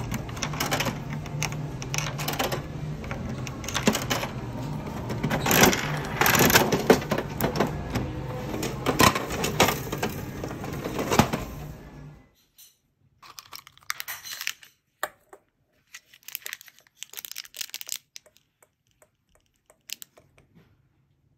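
Rapid clicking and rattling of small hard objects being handled, over a steady low hum. About twelve seconds in, the hum cuts off suddenly and only a few scattered clicks remain.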